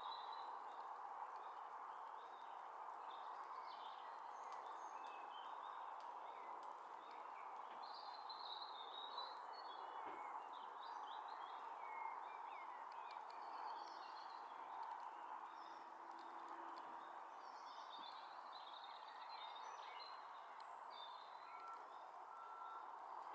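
Small songbirds chirping and calling faintly in scattered short notes over a steady outdoor background rush.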